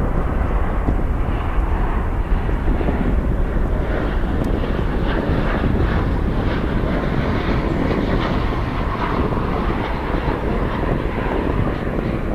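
Jet airliner's engines running as it passes the airport, a steady rush of noise, with wind buffeting the microphone underneath.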